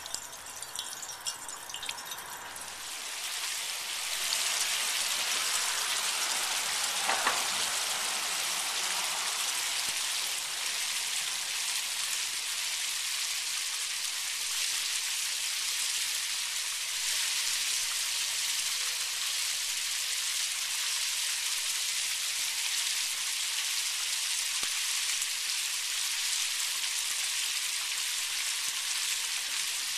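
Water splashing down through the cups of a pure copper cup-style rain chain. It starts as dripping and trickling, and about three to four seconds in it swells to a steady, dense splashing flow.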